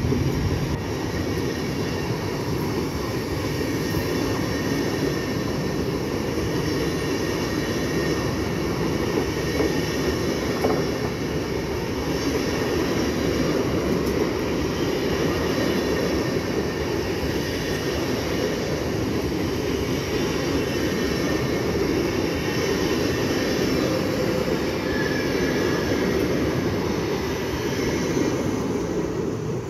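SBB passenger coaches rolling past steadily as the train pulls out of the station: a continuous rumble of wheels on rail with a faint high wheel squeal now and then. The sound begins to fade near the end as the last car, the driving trailer, goes by.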